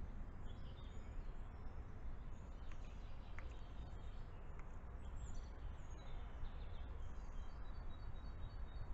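Faint birdsong in the background, scattered short high chirps and trills, over a steady low rumble and hiss.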